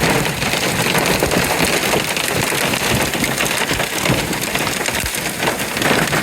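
Torrential thunderstorm rain falling hard in a dense, steady patter of countless drops.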